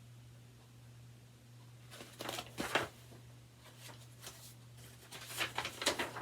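Paper pages of a picture book being handled and turned, two short bursts of rustling about two and five seconds in, over a steady low hum.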